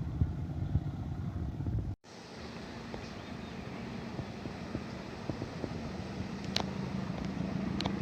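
Diesel locomotive running: a loud low rumble with wind on the microphone that cuts off abruptly about two seconds in, then a steady engine drone with a low hum that slowly grows louder. Two short high-pitched squeals come near the end.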